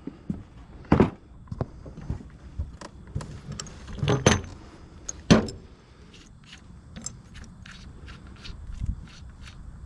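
Metal hand tools being handled and set down: three loud knocks in the first half, then a run of light metallic clicks and jingles.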